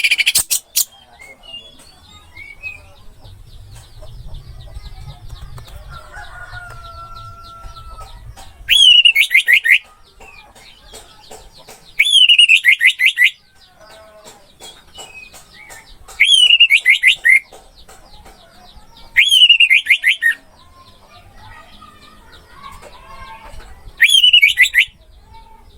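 Orange-headed thrush (anis merah) singing: five loud phrases a few seconds apart, each about a second of rapid downward-slurred notes, with one more short burst at the very start. Faint high chirping of other birds runs underneath.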